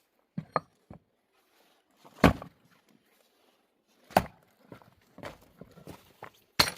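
An axe striking and splitting firewood rounds stood in a tyre: a few light knocks, then three heavy chopping blows about two seconds apart.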